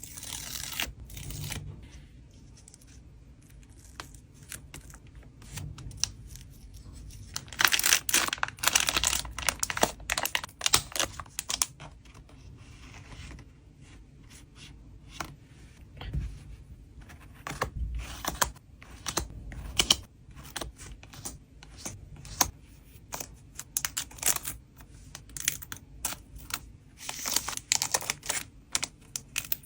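Hands packing collectible cards: packaging crinkling, rustling and tearing in irregular bursts, mixed with quick clicks and taps. Now and then a low rumble of wind on the microphone.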